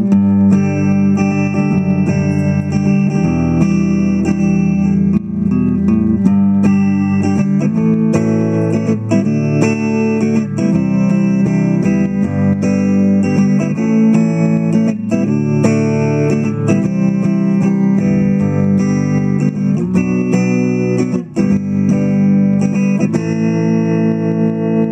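Guitar music: a steady stream of plucked guitar notes and chords.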